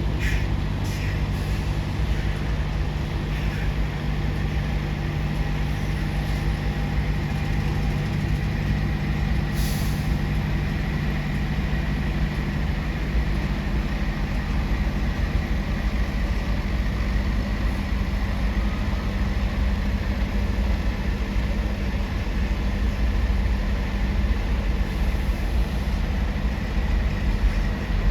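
Heavy truck engines running with a steady low drone at a ferry port, with one short air-brake hiss about ten seconds in.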